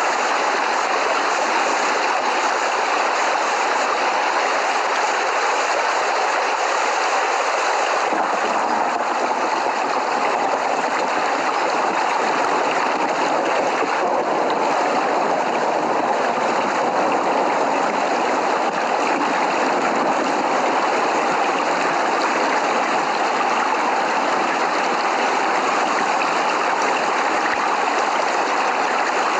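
Steady heavy rain falling as a continuous, even hiss, with no thunder.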